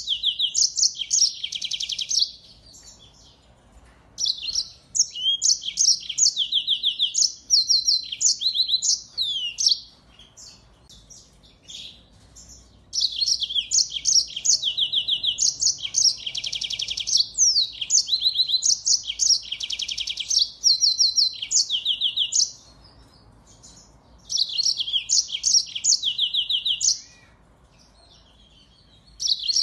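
Finch song: bouts of rapid high trills and twittering phrases lasting several seconds, broken by short pauses.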